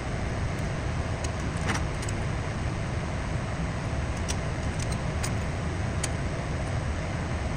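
Light metallic clicks and taps, about seven scattered through the clip, from small steel window-frame pieces being handled and squared up, over a steady low rumbling background noise.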